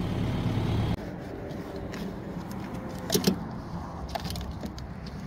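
A vehicle engine running steadily, cutting off about a second in, followed by a few light clinks and knocks.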